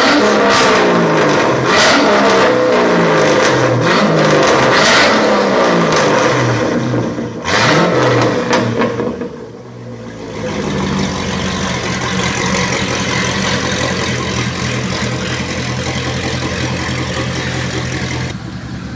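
A high-performance car's engine and exhaust accelerating hard through several gears, the pitch climbing and dropping back at each upshift, with sharp crackles. It fades about halfway through, and a steady engine note at constant pitch follows, changing abruptly just before the end.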